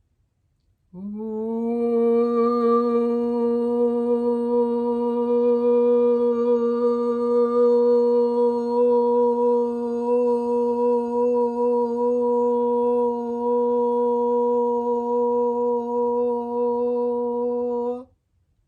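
A person's voice toning: one long held vocal tone at a steady pitch, sliding up slightly as it starts about a second in and stopping cleanly near the end. It is sounded as sound-healing toning.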